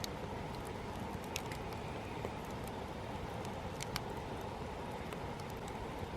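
Wood campfire burning: a steady low rush of flames with scattered sharp crackles and pops, the clearest about a second and a half in and near four seconds.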